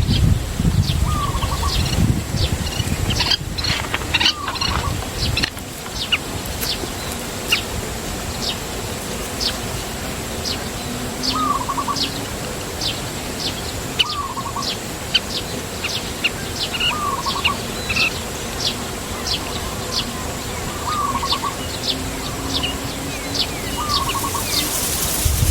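Small birds chirping: many short high chirps, one or two a second, with a lower, short trilled call repeated every two to three seconds. A faint steady high-pitched tone runs underneath.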